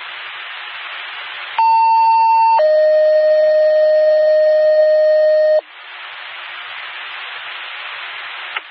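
Scanner radio hiss, then a two-tone dispatch page: a higher tone held about a second, then a lower tone held about three seconds. This is the alert that sets off a volunteer fire department's pagers. Open-channel hiss follows.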